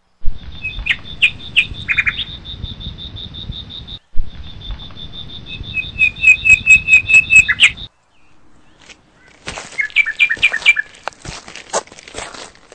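Small birds chirping: quick runs of evenly repeated chirps over a steady high-pitched whine, with the sound cutting off abruptly twice, then scattered chirps and clicks in the last few seconds.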